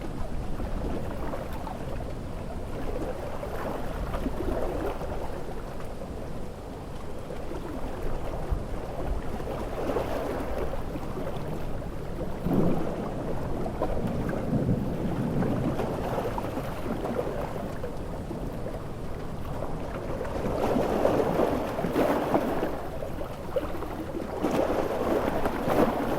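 Heavy rain and large ocean waves breaking, with deep rumbles of thunder in a continuous storm noise that swells several times.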